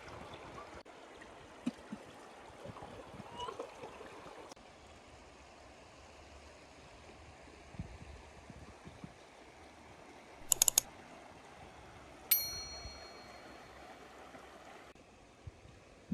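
A stream running steadily, with a quick cluster of sharp clinks about ten seconds in and, a couple of seconds later, a single ringing ding of cookware that fades over about a second.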